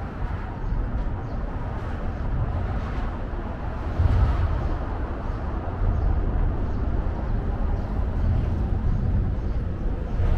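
Steady outdoor city ambience: a low rumble of distant road traffic under a even hiss of noise, swelling about four seconds in.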